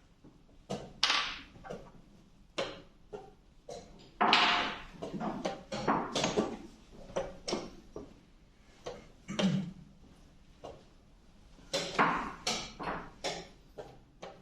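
Irregular knocks and clicks of chess pieces being set down and a chess clock being pressed during a fast blitz game, sometimes several in quick succession, with a louder flurry of scraping and knocking about four seconds in.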